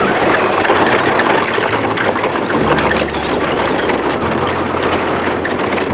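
Traxxas Slash RC car driving hard on dirt: a loud, gritty rush of tyres and motor, over background music with a steady bass line.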